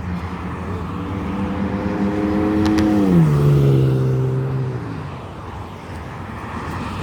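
A pickup truck accelerating past, its engine note climbing a little and then dropping sharply in pitch about three seconds in as it goes by, over steady road traffic noise.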